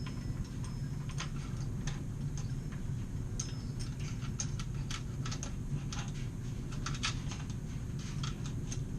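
Light metallic clicks and ticks of a chainsaw chain's links being handled, irregular and scattered, over a steady low hum.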